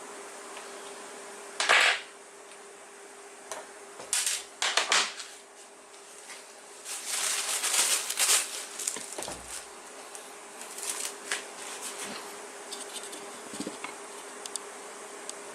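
Hand work on a workbench: a few short scrapes and rattles of tools and parts, with small clicks, over a steady faint hum.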